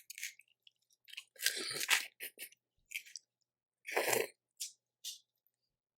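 Close-miked wet chewing while eating boiled crawfish, in short separate bursts with small mouth clicks between them; the loudest burst comes about four seconds in.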